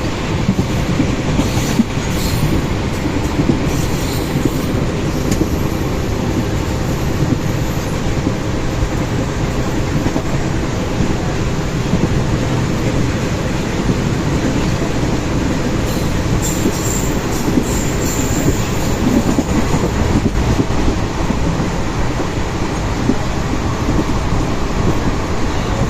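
Freight train wagons running on the rails: a steady loud rumble with close-set clatter of the wheels. A brief high wheel squeal rings out about two-thirds of the way through.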